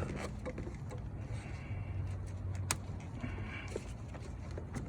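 Hoses being refitted in an engine bay: light handling taps and one sharp click near the middle, over a low steady hum.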